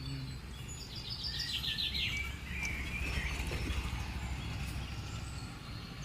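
Wild birds calling outdoors: a rapid trill of repeated high notes about a second in, then warbling chirps, over a steady low rumble.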